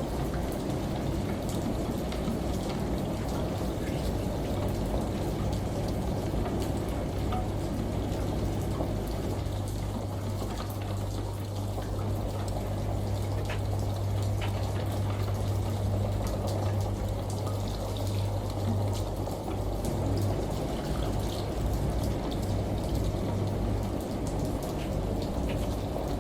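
Steady rain and running water with scattered fine drop ticks, over a continuous low hum from a washing machine.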